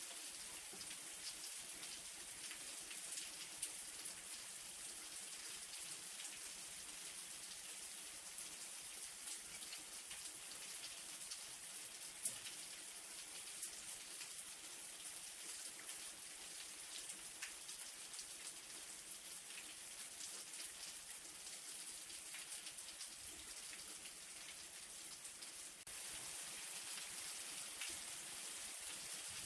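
Light rain falling steadily: a constant hiss of drops with many small ticks and a couple of louder single drips. The rain gets a little louder near the end.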